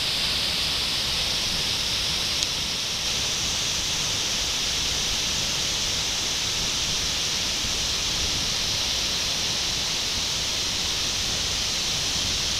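Waterfall: a steady, unbroken rush of falling water, strongest in the hiss range, with one tiny click about two and a half seconds in.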